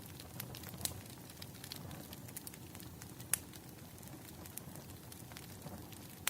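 Firewood burning and crackling: irregular sharp pops and snaps, a couple louder than the rest, over a low steady rumble.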